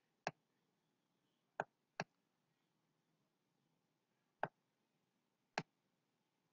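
Computer mouse clicking five times, sharp single clicks with a quick pair about a second and a half in, over near silence.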